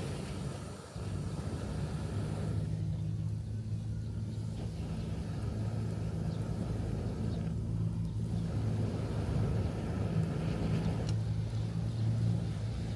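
Steady low engine drone from a motor vehicle or boat, holding one pitch, over a soft background of surf and wind.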